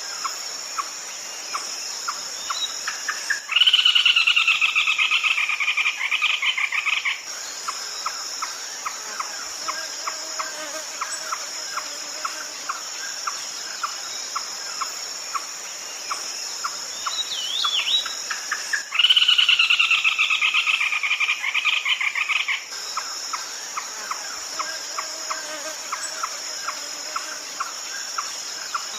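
Red-legged crake calling: two loud bursts of rapid repeated notes, each about three and a half seconds long and falling slightly in pitch, roughly fifteen seconds apart. Between them runs a steady high insect drone with regular faint ticking.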